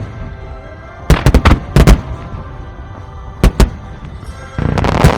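Fireworks bursting over music: a quick run of about five sharp bangs about a second in, two more a couple of seconds later, then a dense crackling near the end.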